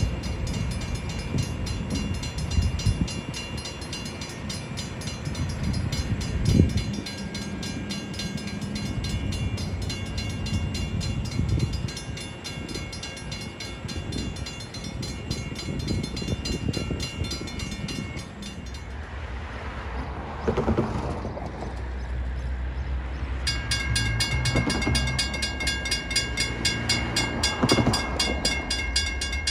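A train rolling along the tracks: a steady low rumble with wheel and rail noise, and the sound changes abruptly about two-thirds through.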